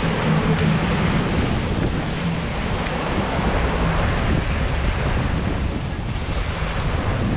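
Wind buffeting the microphone over rushing sea water, with a low steady engine hum underneath for the first couple of seconds and again near the end.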